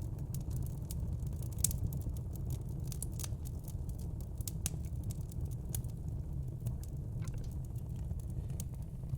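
Fire crackling: irregular sharp pops and ticks over a steady low rumble.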